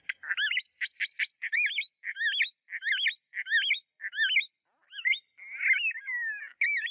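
Sun conure chirping in a quick series of short, bending notes, several a second, running into a longer warbling stretch near the end.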